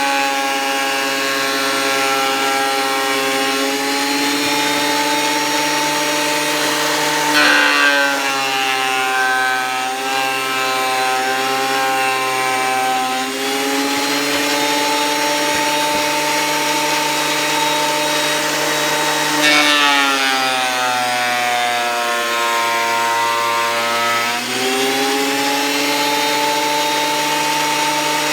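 Thickness planer running with freshly changed blades, its motor whine dropping in pitch twice as a hardwood board feeds through and cuts, then rising back to speed each time the board clears.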